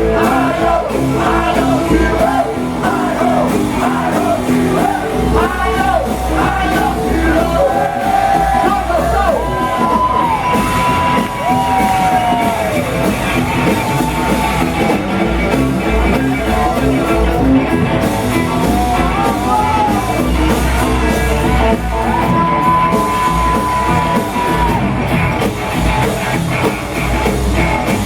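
Live rock and roll band playing loudly, with singing and shouts over a steady driving beat, and long bending held notes.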